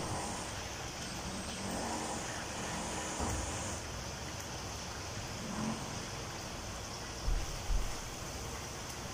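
Chicken frying in a pan on a gas stove, a steady sizzle, with two low thumps about seven and a half seconds in as the pan is worked with a spatula.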